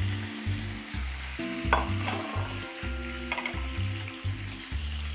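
Halved chicken wings sizzling as they fry in hot oil in a nonstick frying pan, with two brief louder crackles about two and three seconds in.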